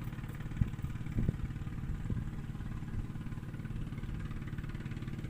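An engine running steadily at a low, even pitch, with a couple of light knocks about half a second and a second in.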